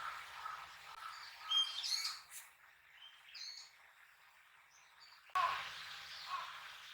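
Birds chirping outdoors, with a few quick chirps about one and a half to two and a half seconds in and another short call at about three and a half seconds, over a faint call repeating about twice a second. The sound jumps suddenly louder a little after five seconds in.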